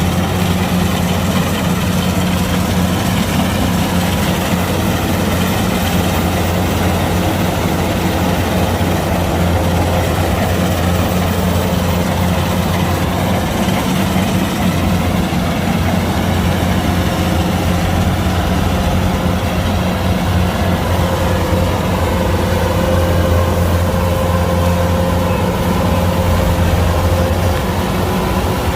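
Kubota DC-105X combine harvester's diesel engine running steadily, a deep even drone that holds the same pace throughout.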